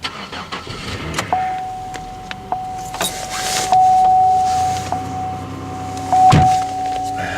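Car cold-started in sub-zero weather: a steady warning chime sounds, broken about once a second, while the starter cranks. The engine catches quickly and settles into a cold idle, with a loud thump near the end.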